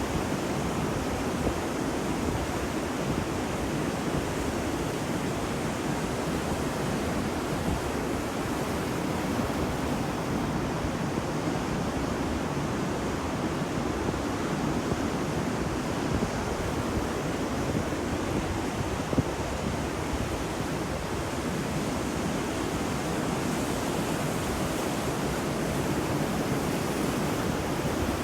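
Ocean waves washing onto a beach, heard as a steady, continuous rush of surf with no distinct breaking swells.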